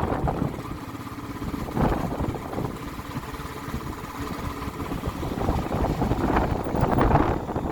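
Vehicle engine running on the move, under a steady rush of wind and road noise, with louder surges of rushing noise about two seconds in and near the end.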